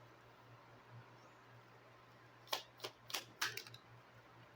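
Playing cards being handled and laid out on a table: a quick run of about five faint, sharp clicks and snaps, roughly a third of a second apart, starting about two and a half seconds in.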